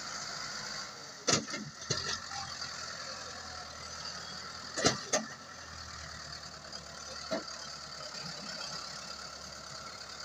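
Tractor engine running steadily, with five short sharp knocks spread through it.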